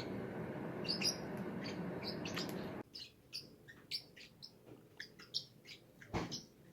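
Small pet parrots chirping in short, high calls, over a steady background noise that cuts off about three seconds in. A single thud comes near the end.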